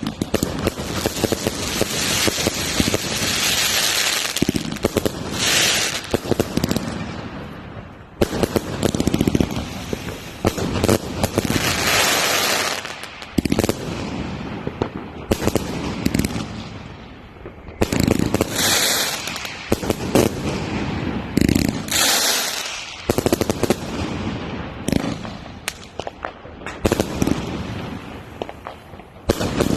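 Fireworks going off without a break: rapid volleys of bangs and crackling, with sharp loud reports and hissing, crackling bursts every few seconds.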